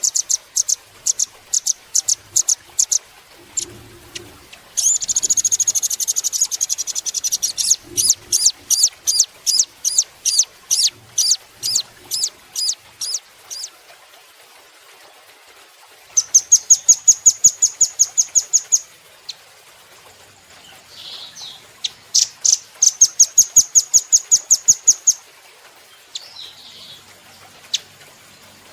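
Velvet-fronted nuthatch singing: phrases of rapid, sharp, high-pitched chips and trills, some of the notes run together into fast buzzy rattles. The phrases come four or five times, with short pauses between them.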